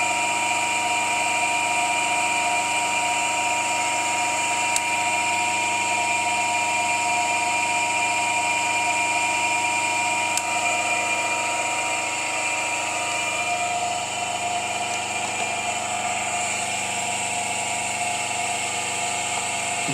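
Three-phase asynchronous induction motor running steadily on 380 volts through a single capacitor, a continuous electric hum and whine with several steady high tones.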